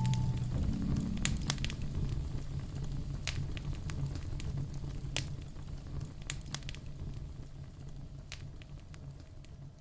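Wood fire burning in a fireplace: burning logs crackling with scattered sharp pops over a low, steady rumble of flame. It fades out gradually toward the end.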